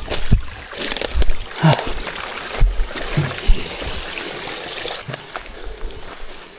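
Water splashing and trickling, with irregular footstep-like thuds and knocks, as someone wades through a shallow stream.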